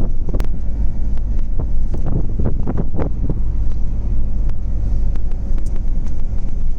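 Steady low rumble of a car on the move, with scattered light ticks and taps over it.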